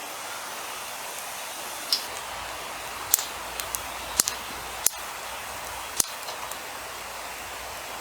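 Wood campfire crackling, with a steady hiss and about half a dozen sharp, irregularly spaced pops.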